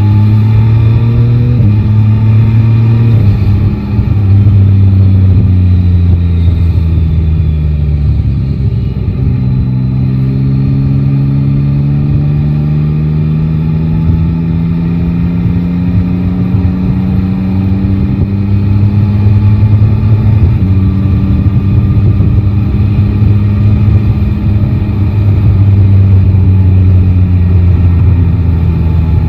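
Yamaha Tracer 9 GT motorcycle's 890 cc inline-three engine running while riding. Its note falls over the first several seconds, then climbs slowly for about ten seconds, drops a step about twenty seconds in, and holds fairly steady to the end.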